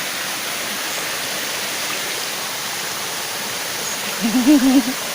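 Water rushing and splashing steadily over the rocks of a hot-spring waterfall and stream. A person's voice speaks briefly near the end.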